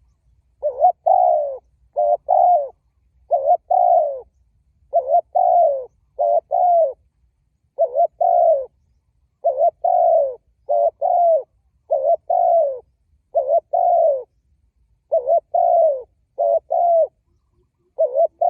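Spotted dove cooing over and over, in phrases of two or three rounded notes with short pauses between them.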